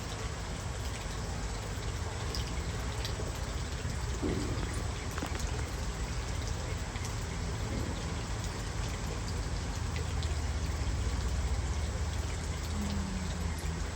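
Steady trickling, pouring water.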